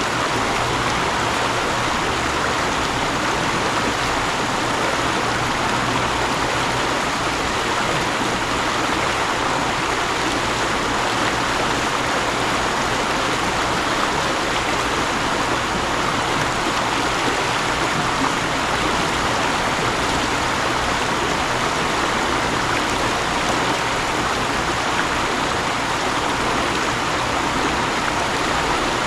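Mountain stream water rushing and splashing over rocks, a steady, even sound.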